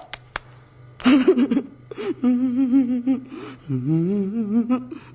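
Wordless humming or sung vocal with a wavering vibrato over a steady low background tone, starting about a second in after a few short clicks.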